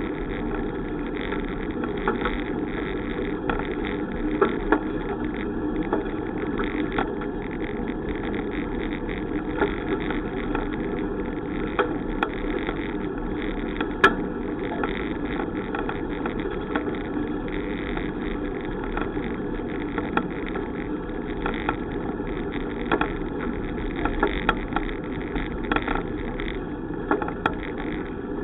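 Steady rushing noise of a bicycle in motion, wind and road noise on the recording, with frequent small clicks and rattles from the bike.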